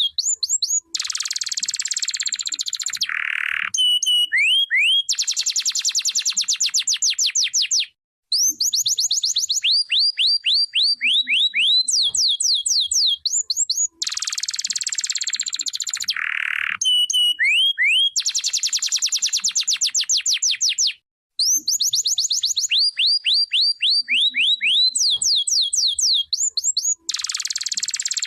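Domestic canary singing: fast trills of repeated upswept notes alternating with dense buzzing rolls, with the same song sequence coming round again about every thirteen seconds.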